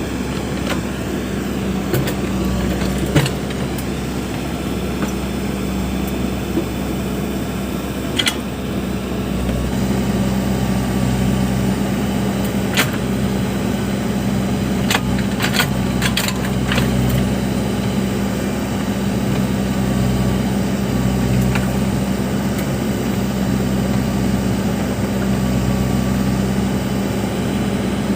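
Backhoe loader's diesel engine running steadily, with a few sharp knocks or clanks scattered through, several close together about two-thirds of the way in.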